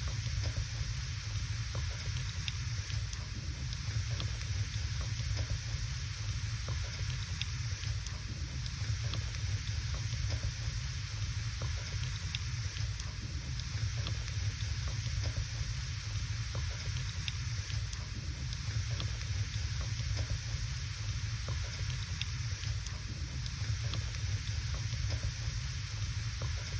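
Wood fire burning in a fireplace, crackling with scattered small pops over a steady low rumble and hiss.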